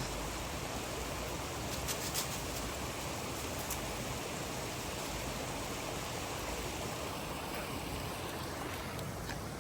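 Steady rush of a flowing river, with a few light clicks about two seconds in.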